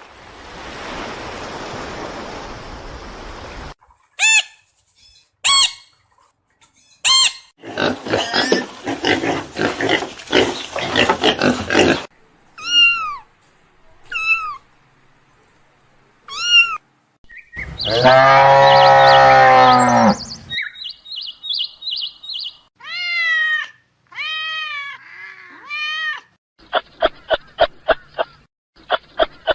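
A succession of different animal calls, one after another: first a hiss, then clicks and repeated short chirping calls that fall in pitch, a long loud call with many overtones about two-thirds of the way through, and a fast run of short pulses near the end.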